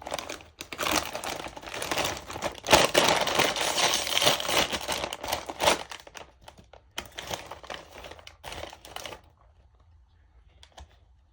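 Plastic potato chip bag crinkling as it is handled and opened. The crackling is dense and loud for about the first six seconds, then a few shorter rustles follow and it stops about nine seconds in.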